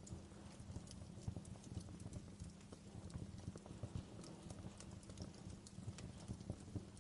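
Wood fire crackling in a fireplace: a soft, steady low rumble of burning logs with frequent small irregular crackles and occasional sharper pops.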